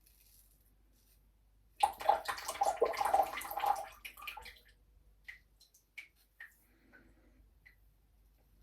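Water splashing and swishing for about two seconds as a double-edge safety razor is rinsed, followed by a few scattered light clicks and drips.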